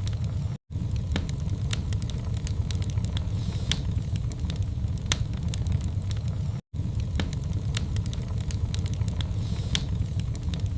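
Wood fire burning in a fireplace: a steady low rumble with irregular sharp crackles and pops. The sound cuts out completely for a moment twice, about half a second in and about seven seconds in.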